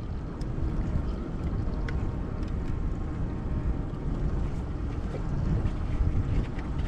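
Wind buffeting the microphone: a steady, uneven low rumble, with a few faint ticks.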